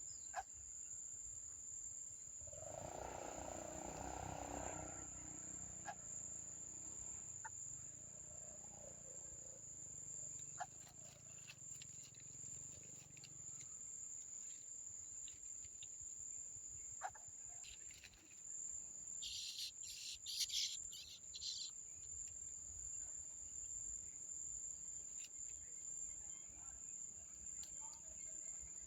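An insect's steady high-pitched call, a single unbroken tone running on without pause. A rustling swell comes about three seconds in, scattered faint clicks follow, and a short flurry of high chirps about two-thirds of the way through.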